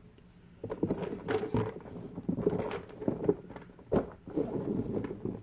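Fidget toys being handled and sorted by hand: a busy run of rustling, knocks and light thuds starting about a second in, with a few louder knocks.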